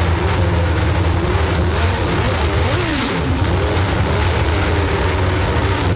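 IndyCar racing engine running loudly and steadily, its pitch wavering as the throttle is worked, with a brief surge of revs about three seconds in.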